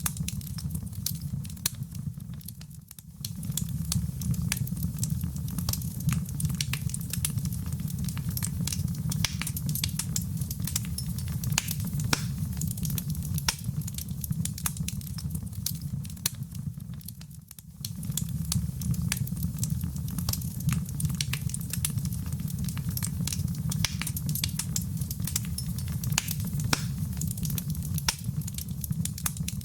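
Wood fire in a fireplace crackling, with frequent sharp pops and snaps over a steady low rumble of the flames. It dips briefly twice, about three seconds and about seventeen seconds in.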